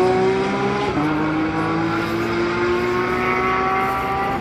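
GT race car engine accelerating hard, its pitch climbing steadily through the gears. It upshifts with a sudden drop in pitch about a second in, and again at the end.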